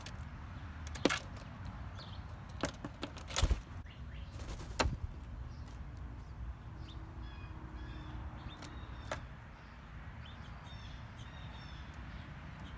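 Faint bird chirps in the second half, over a steady low rumble. Several sharp knocks or clicks come in the first five seconds, with one more about nine seconds in.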